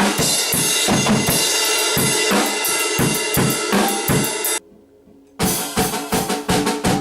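Acoustic drum kit played hard: kick, snare and cymbals. It cuts out abruptly for under a second about four and a half seconds in, then comes back with quick, evenly spaced strikes.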